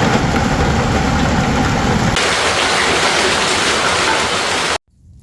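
Loud, steady rushing noise of a heavy storm downpour, with a deep rumble underneath for the first two seconds that drops away suddenly. It cuts off abruptly near the end.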